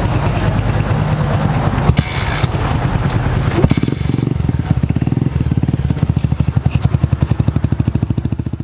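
Single-cylinder four-stroke motorcycle engine running through an aftermarket sports exhaust. It is loud and busy at first, then settles about halfway into a steady, even beat of exhaust pulses.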